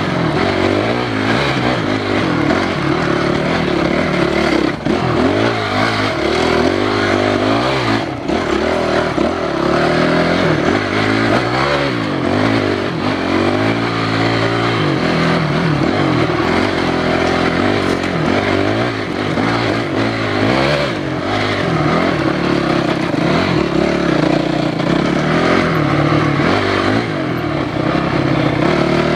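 Enduro motorcycle engine ridden hard, its revs rising and falling again and again with the throttle.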